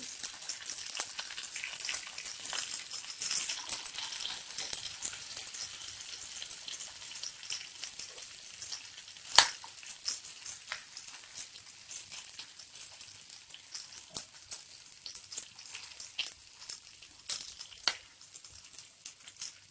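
Stuffed capsicums (bell peppers) shallow-frying in a little oil in a frying pan, with a steady sizzle that is strongest in the first few seconds as they are turned over with a spoon. Scattered sharp clicks run through it, and one louder knock comes about nine seconds in.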